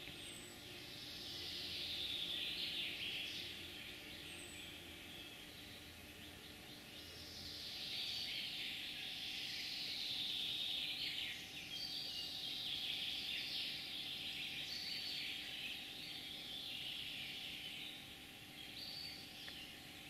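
Birds singing in a forest: overlapping high chirps and trills that swell louder twice, over a faint steady background hum.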